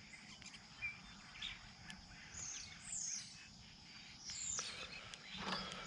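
Faint birds chirping, a few short high calls, over quiet outdoor background, with no engine running.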